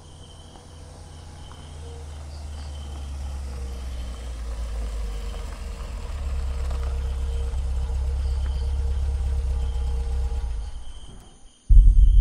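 Car engine rumbling steadily, swelling louder over about ten seconds, with crickets chirping faintly. It fades out about eleven seconds in, and after a moment of near silence a sudden deep boom comes in near the end.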